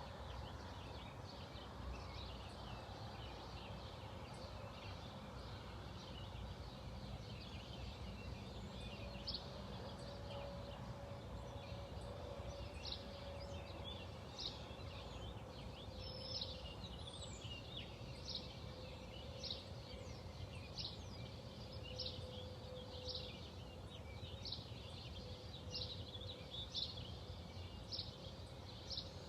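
Outdoor birdsong: one bird repeats a short, high, falling note about once a second, over a background chorus of other birds. A low rumble and a faint steady hum run underneath.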